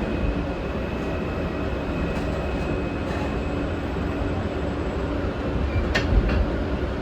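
New York City subway R train car running in the tunnel, heard from inside the car: a steady rumble with a thin, steady high whine, and one sharp click about six seconds in.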